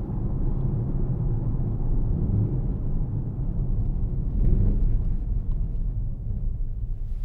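The 4.0-litre twin-turbo V8 of a 2018 Mercedes-AMG GLC63 S running under way in Sport mode, a steady deep rumble with road noise. It swells louder briefly about four and a half seconds in.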